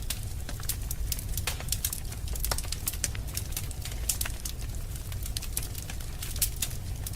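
Wood fire crackling in a fireplace: a steady stream of irregular sharp snaps and pops over a low rumble of the burning fire.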